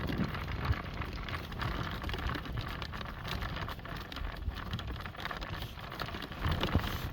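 Horse-drawn driving cart moving at a trot over field ground: a steady rumble and rattle of wheels and harness, with wind on the microphone.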